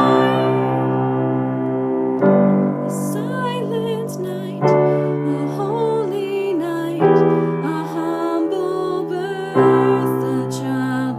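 Slow piano chords struck about every two and a half seconds and left to ring, with a solo voice singing a slow, wavering melody over them.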